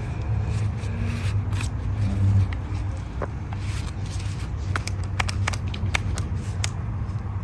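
Saker mini 4-inch cordless electric chainsaw cutting green wood, with scraping and crackling of the wood. The sound drops off about two and a half seconds in as the saw stops working, which the owner wonders may be from overheating.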